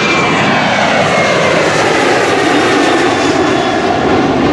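A fixed-wing aircraft passing close by, its engines loud and steady, with tones that slide down in pitch as it goes past.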